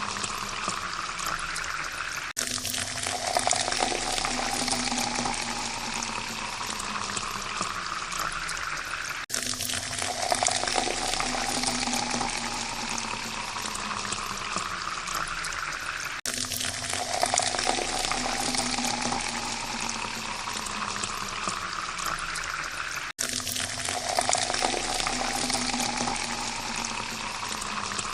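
Water poured in a steady stream into a glass. The pitch rises as the glass fills, and each pour of about seven seconds breaks off abruptly and starts over, several times in a row.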